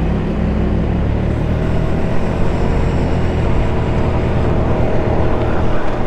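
A 150cc GY6 scooter's single-cylinder four-stroke engine running steadily under way, heard from the rider's seat with road and wind noise mixed in.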